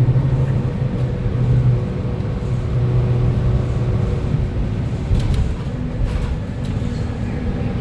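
Interior of a Gillig BRT CNG transit bus on the move: the natural-gas engine and driveline give a steady low drone with a faint whine above it. A few light rattles come about five to six seconds in.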